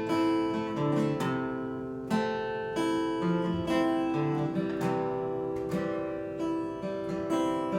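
Acoustic guitar played solo, strumming chords with a new chord struck about once a second: an instrumental passage between sung verses of a song.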